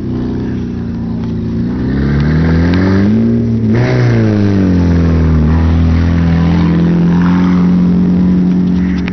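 Car engine on a dirt track revving up, easing off about four seconds in, then holding a steady drone.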